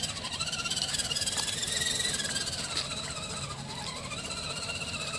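Redcat Gen7 RC rock crawler's electric motor and drivetrain gears whining as it crawls, the pitch wavering slightly with the throttle.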